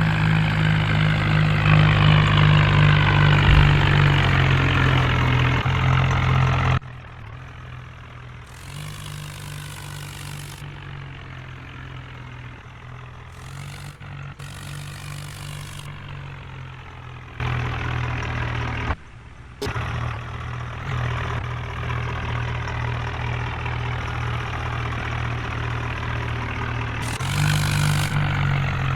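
Heavy diesel engine running steadily, changing abruptly several times; it is quieter for about ten seconds in the middle.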